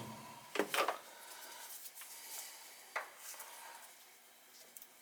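Quiet handling sounds while the furnace control is probed with meter leads: a couple of knocks just under a second in, a sharp click about three seconds in, and light rubbing.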